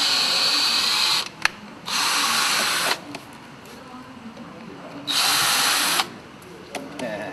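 A handheld power tool run in three short bursts of about a second each, with a high whirring hiss, the second and third bursts following after short pauses.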